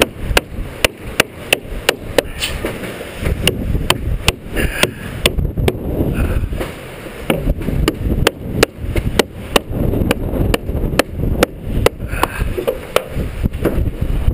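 Wind buffeting the microphone with a low rumble, over a string of sharp clicks or knocks coming irregularly about two to three times a second.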